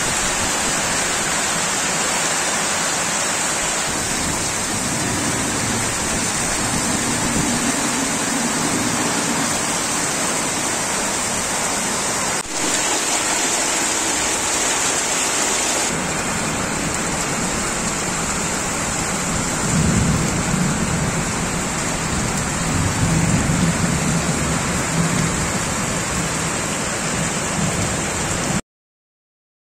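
Heavy rain pouring steadily onto a concrete courtyard and leafy plants, with low rumbling swelling about twenty seconds in and again a few seconds later. The sound cuts off abruptly near the end.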